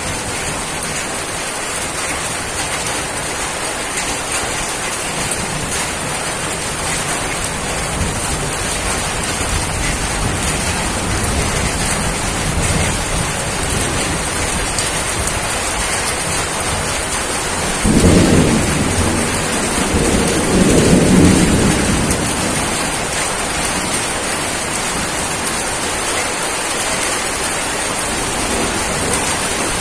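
Steady heavy rain with thunder rumbling low in the background, swelling into two louder rolls a little past the middle.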